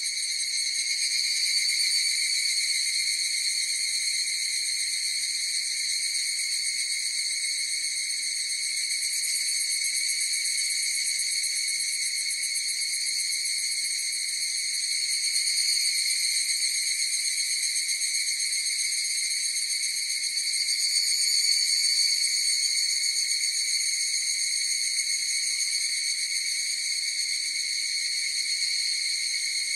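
A chorus of higurashi evening cicadas (Tanna japonensis) calling: a continuous, high-pitched ringing trill made of many overlapping calls, swelling and fading a little a few times.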